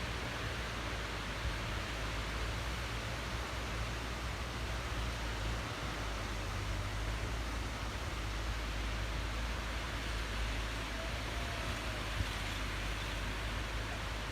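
Strong wind ahead of a rainstorm: a steady rushing noise, with a low rumble of wind buffeting the microphone.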